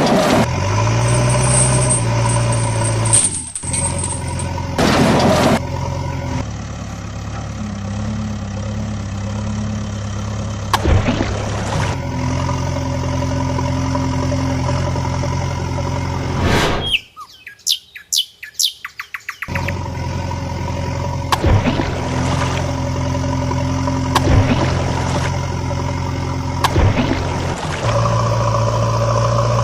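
Vehicle engine sound running steadily with held humming tones, broken by a few sharp knocks. About seventeen seconds in, the engine drops out for a couple of seconds of rapid chirping before it resumes.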